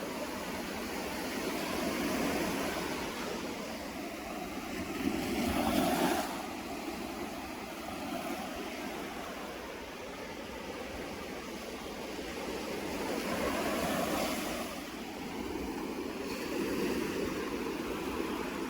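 Sea waves breaking and washing on the shore, rising and falling in several swells, the loudest about six seconds in.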